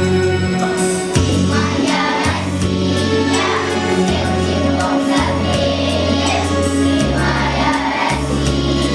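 A children's choir singing a song together over a recorded backing track with a steady bass line.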